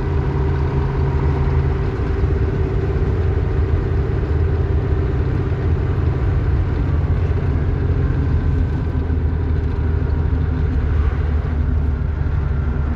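A vehicle's engine running steadily and loudly, its low note shifting slightly about two seconds in.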